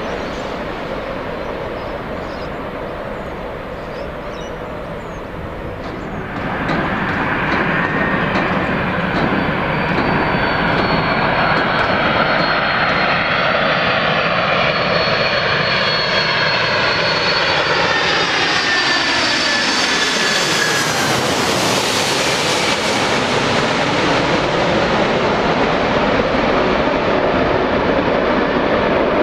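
Jet airliner on landing approach flying past: about six seconds in its engine noise grows louder, with a whine that slides down in pitch as it passes about two-thirds of the way through, then a steady roar as it moves away.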